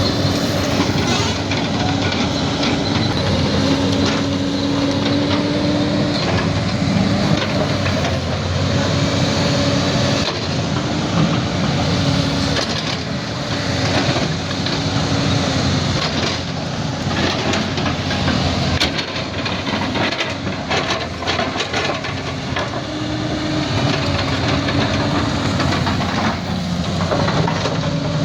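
Bulldozer's diesel engine running steadily, its pitch shifting now and then under load, with intermittent clanks and cracks mostly in the middle stretch.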